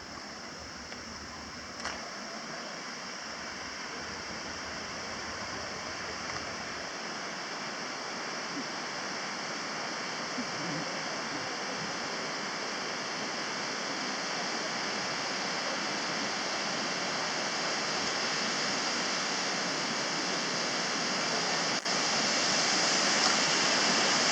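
Shirahige Falls' waterfall rushing: a steady roar of falling water that grows gradually louder.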